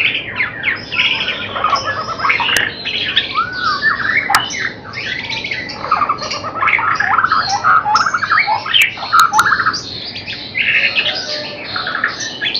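Young white-rumped shamas singing nonstop, a fast, varied run of whistled glides, trills and harsh chattering notes.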